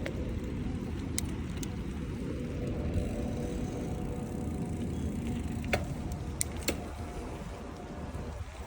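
Steady low rumble of wind and road noise from a bicycle ride, with car traffic, broken by a few short sharp clicks.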